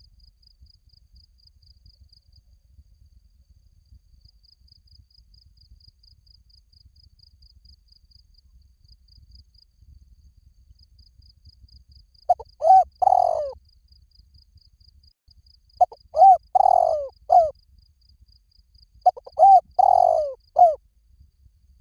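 Spotted dove cooing: three phrases of a few falling coos each, the first about halfway in, then two more about three seconds apart. Under the coos, and alone before them, a faint chirping insect ticks steadily about five times a second.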